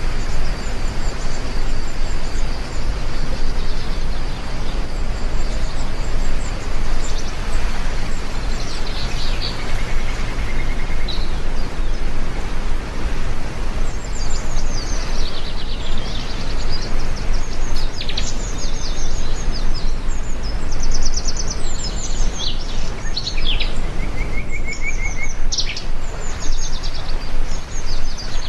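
Steady heavy rain, with small birds chirping and trilling over it, sparsely at first and then often from about halfway through.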